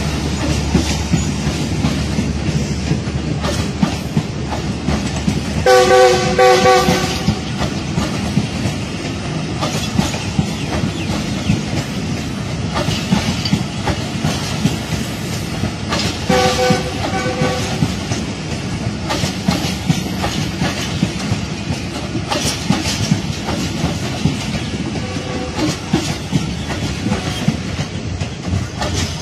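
A Pakistan Railways train running, its wheels clicking over rail joints. The locomotive's multi-tone horn blows twice: a longer blast about six seconds in and a shorter, broken blast about sixteen seconds in.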